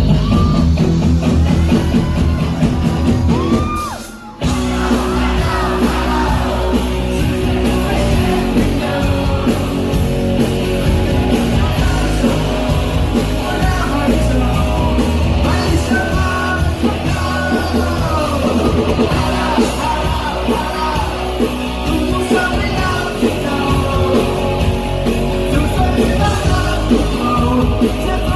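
Live rock band playing with a singer's vocals over the full band. About four seconds in, the music drops away briefly, then the band comes back in at once.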